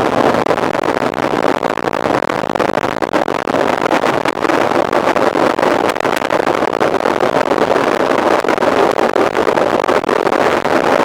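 Mountain bike being ridden fast: wind rushes over the microphone, mixed with a steady stream of small clicks and rattles from the bike and its tyres on the trail.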